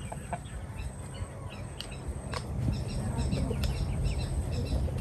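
Small bird chirping: short high notes in quick pairs, repeating several times a second from about halfway through, over a steady low background rumble.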